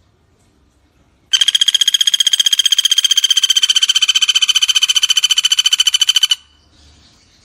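Common flameback woodpecker giving one long, rapid rattling trill, about five seconds long, starting about a second in and cutting off sharply.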